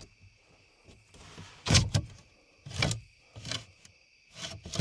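Truck camper shell window being slid open a crack: several short knocks and scrapes from the latch and sliding pane, the loudest a little under two seconds in.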